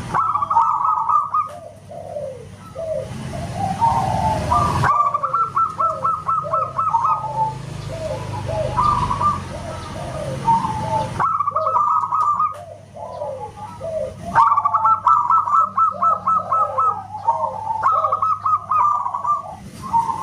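Zebra dove (perkutut) singing: repeated bursts of quick stuttering coos followed by lower falling notes, over and over. Faint high chirps sit behind it, and the background noise changes abruptly a few times where the recording is spliced.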